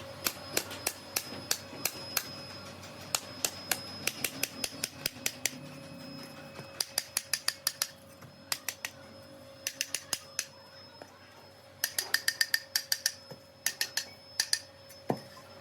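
Sharp clicks in quick runs of several a second, broken by short pauses, over a steady machine hum in a workshop.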